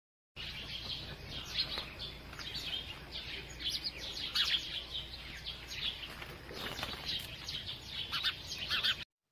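Many birds chirping in quick, short, overlapping calls over a steady low background hiss. It starts just after the beginning and cuts off suddenly near the end.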